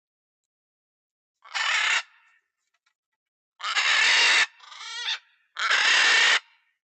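Macaw screeching: three loud, harsh squawks about two seconds apart, each lasting under a second, with a softer, more wavering call between the second and third.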